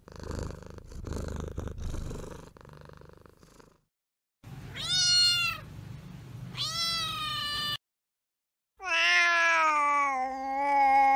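Domestic cats meowing: two short meows about halfway through, then one long drawn-out meow near the end that sinks slightly in pitch. The first few seconds hold only a low rumble.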